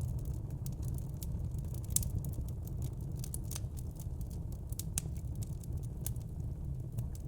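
Crackling fire: irregular sharp snaps and pops over a steady low rumble.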